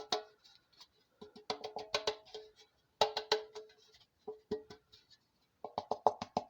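A bread pan being tapped and knocked to spread flour over its greased sides: bursts of quick ringing knocks, several strokes at a time, with short pauses between bursts.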